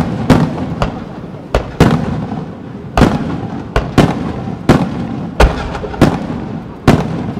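Aerial firework shells bursting in quick, uneven succession: about a dozen sharp bangs, each trailing off in a rumble before the next.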